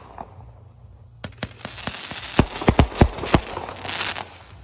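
Fireworks going off: a quick run of about ten sharp bangs over two seconds, starting about a second in, then a short hiss.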